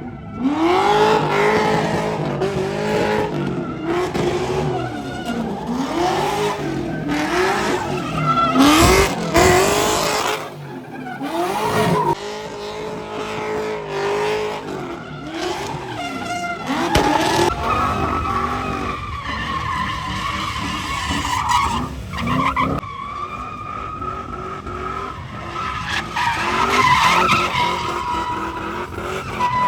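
Car doing a burnout: the engine revs rise and fall about once a second, then the tyres hold a long, steady squeal over the engine.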